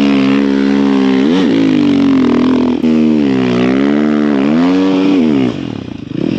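Snow bike engine revving hard, close up, its pitch dipping and climbing back twice, then falling to a lower, uneven running near the end.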